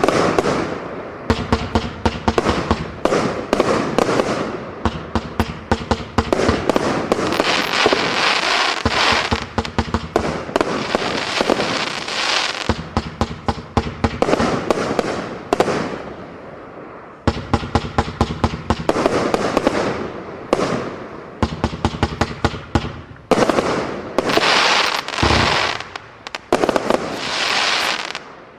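Firework barrage cakes firing continuously: rapid, dense strings of bangs with stretches of crackle, easing briefly about two-thirds of the way through before picking up again.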